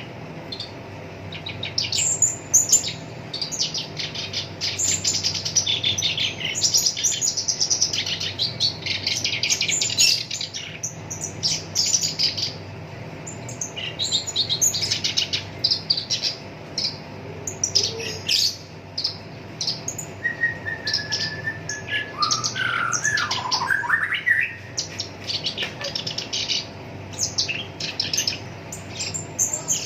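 Black-browed reed warbler singing a long, rapid song of short, quick-fire notes strung into fast runs, with a lower, falling phrase about three-quarters of the way through. A faint steady hum sits beneath the song.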